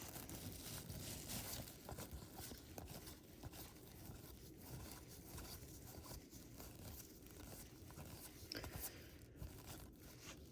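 Faint tearing and crinkling of a 1992 Score baseball card pack wrapper being opened by hand, with soft scattered rustles and clicks.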